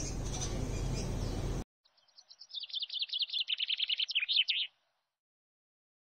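A songbird trills a fast run of high notes, about eight a second, growing louder before stopping abruptly. Before it, a steady rush of noise cuts off suddenly.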